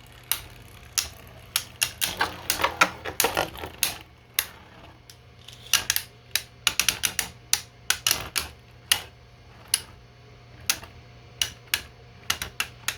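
3D-printed plastic Beyblade spinning tops clashing in a stadium: irregular sharp clacks, with rapid flurries of hits about two to four seconds in and again about six to nine seconds in. A steady low hum runs underneath.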